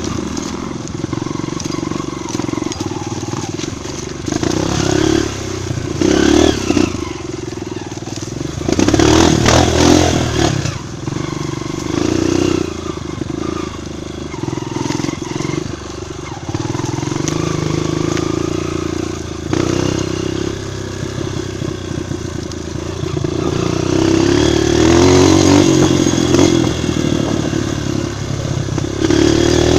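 Honda single-cylinder four-stroke trail motorcycle engine running under changing throttle while riding, swelling louder twice, near the middle and again near the end.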